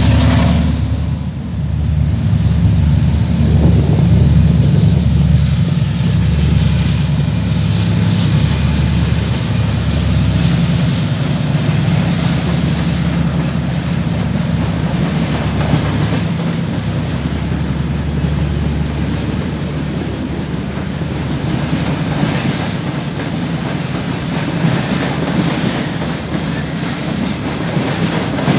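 Loaded open freight wagons rolling slowly past, with wheels clicking over rail joints and a thin high wheel squeal through the first half. Under it runs the low drone of the 2TE10M diesel locomotives working hard to pull the long freight train away, weakening about halfway.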